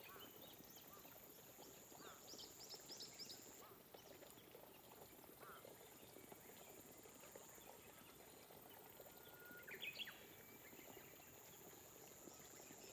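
Light rain pattering softly over rice paddies, with scattered bird calls: a quick run of high chirps about two seconds in and a short rising call near ten seconds. A thin high steady buzz comes and goes behind them.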